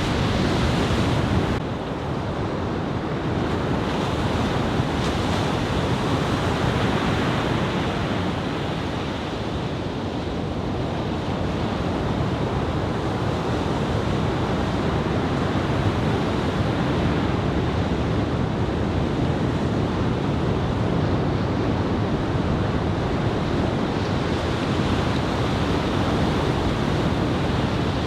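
Ocean surf from a head-high typhoon swell breaking and washing steadily, a continuous roar of water.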